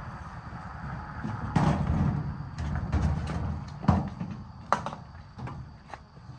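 Irregular knocks and clatter over a low rumble, with louder thumps about one and a half, four and nearly five seconds in.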